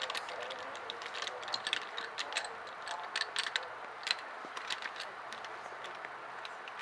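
Scattered light clicks and ticks, irregular and a few a second, over the steady running noise of a commuter train carriage.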